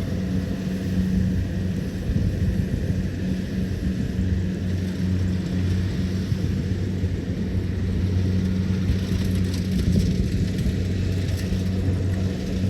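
Kubota DC-70 Plus combine harvester's diesel engine running at a steady, even drone.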